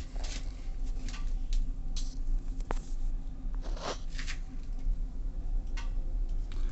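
Waterland pellet stove running with a steady low hum, with scattered light clicks and rustles on top of it.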